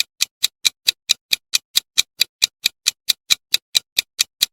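Quiz countdown timer sound effect: fast, even clock-like ticks, about four or five a second.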